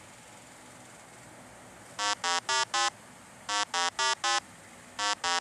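Electronic buzzing beeps in groups of four short, even tones, a group starting about every second and a half from about two seconds in.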